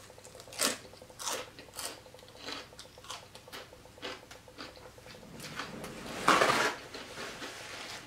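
Close-up chewing of crunchy fried pork rinds (chicharrón): a string of crisp crunches, roughly one every half second, with a louder, longer crunch a little past six seconds in.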